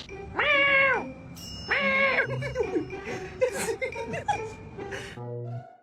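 A cat meowing twice, two loud drawn-out meows each rising and falling in pitch, followed by quieter mixed sounds.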